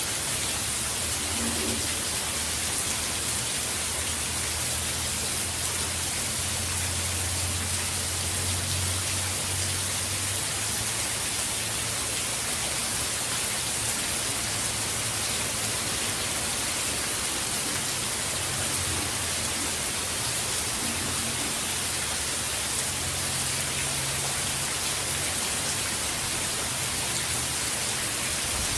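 Heavy hurricane rain falling steadily as an even hiss. A low rumble underneath swells and eases, louder about a quarter of the way in.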